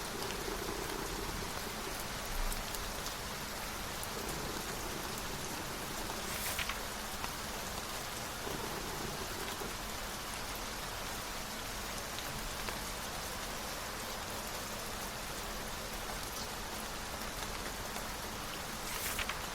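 Steady rain falling, with two brief paper swishes of a book's page turning, one about six seconds in and one near the end.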